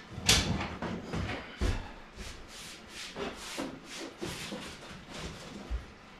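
Irregular knocks, scrapes and rustling of hands and tools working on a car's front seat as it is freed from its mounts. The loudest clunk comes just after the start and another about a second and a half later.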